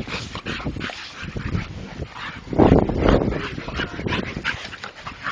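Young pit bulls play-fighting: short yips, whines and barks among scuffling, the loudest outburst about two and a half seconds in.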